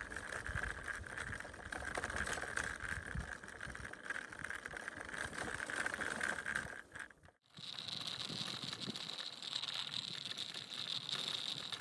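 Outdoor ambience with wind buffeting the microphone and a steady high-pitched hum. About seven seconds in, the sound cuts out briefly, then resumes with a different, higher steady hum and no wind rumble.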